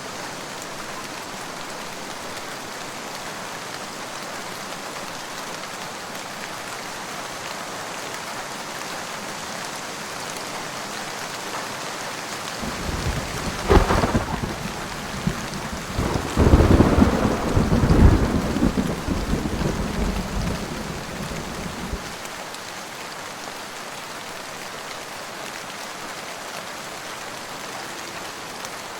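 Steady rain with a clap of thunder about halfway through: a sharp crack, then several seconds of deep rolling rumble that fades back into the rain.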